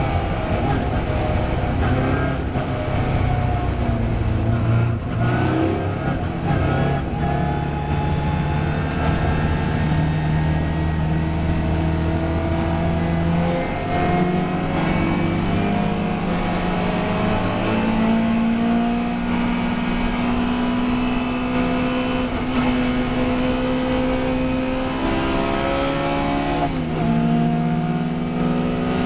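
Racing touring car engine under hard acceleration, its pitch climbing steadily through a long gear and dropping sharply at an upshift near the end.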